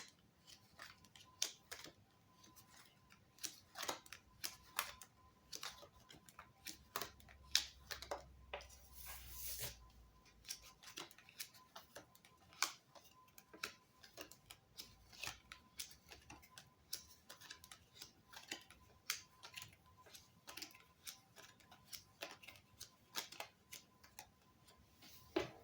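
Playing cards being shuffled and dealt onto a table: faint, irregular light clicks and snaps, with a brief rustle about nine seconds in.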